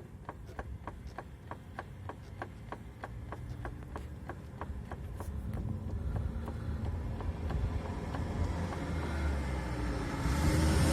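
Steady knocking from the differential of a Renault Megane II, about four knocks a second, as a raised front wheel is jerked sharply back and forth; the knocks fade out about halfway. The owner suspects worn differential planet gears. A passing car grows louder near the end.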